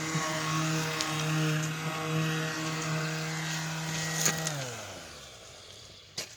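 A motor running at a steady pitch, then switched off with a click about four seconds in and winding down, its hum falling in pitch and fading away.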